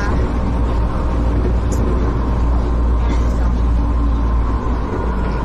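Bus running, heard from inside the cabin: a steady low engine and road rumble.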